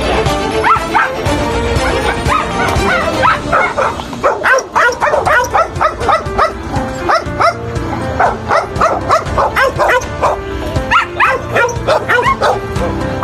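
Dogs barking aggressively in rapid, repeated barks over background music, the barking growing dense about three seconds in.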